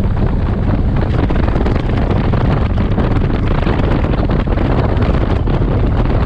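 Heavy wind buffeting the microphone, a loud, steady, rumbling roar with no let-up.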